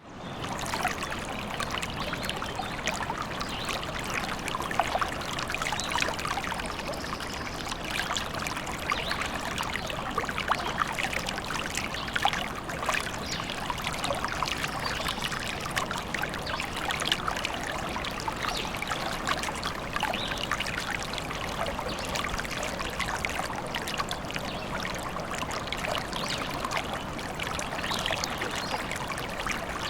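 A small forest stream babbling and trickling steadily, a continuous rush of water full of quick little splashes, after a brief dip at the very start.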